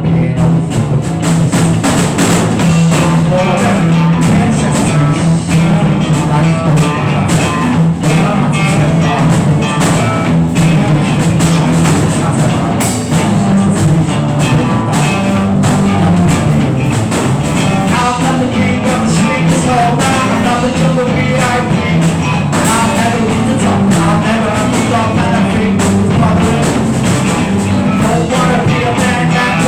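Rock band playing an improvised jam: drum kit and guitar over a low line that steps between notes, played continuously.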